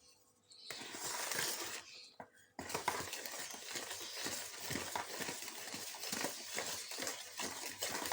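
Stirring a thick, wet plaster of Paris mix in a bowl: irregular scraping and soft knocks. It starts about a second in, pauses briefly, then goes on steadily.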